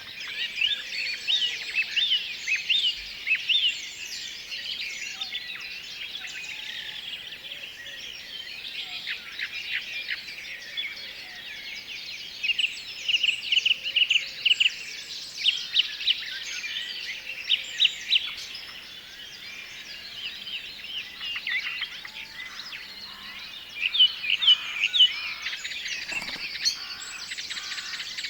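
Several forest songbirds singing and chirping at once: many short high chirps and quick sweeping notes overlapping over a steady hiss, with a fast trill of repeated notes about halfway through.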